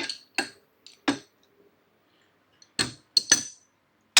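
Short metallic clinks and knocks, four in quick succession and then three more near the end, some ringing: the hydraulic jack inside a scissor motorcycle lift being shifted by hand on its freshly fitted mounting bolt to check that it moves freely.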